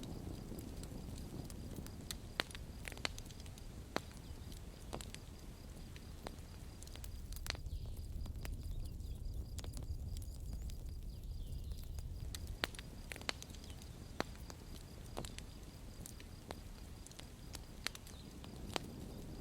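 Campfire crackling: irregular sharp pops and snaps over a low, steady rumble of burning.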